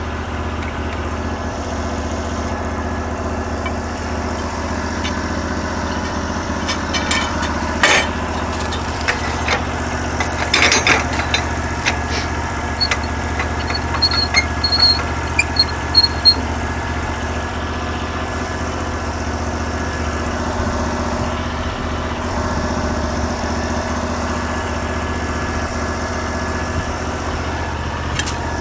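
Portable sawmill's 16 hp engine idling steadily. Scattered knocks and clatter about a quarter of the way in and through the middle.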